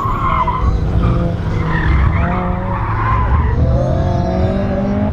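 A 2014 Mazda MX-5 Miata (NC)'s four-cylinder engine is working hard under changing throttle, its pitch rising and falling. The tyres squeal repeatedly as they reach the limit of grip through the corners.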